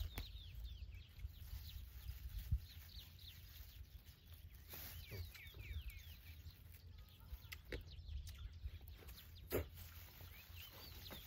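Birds chirping in quick runs of short high calls, with a few knocks and a low rumble underneath.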